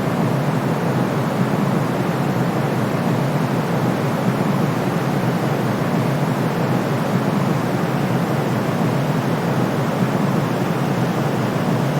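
Steady white noise for soothing a colicky baby: an even, deep hiss with most of its weight low down and softer highs, unchanging throughout.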